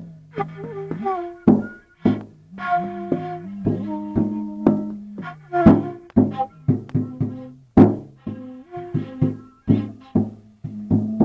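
Music played on instruments: sharp, irregular percussive strikes over sustained pitched notes that change every half second or so.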